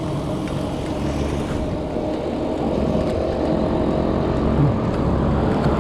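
A motor vehicle engine running steadily close by, a continuous low rumble with traffic noise.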